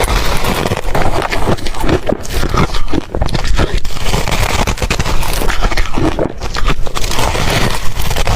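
Ice being crunched and chewed close to the microphone: a dense, irregular run of crunches and crackles.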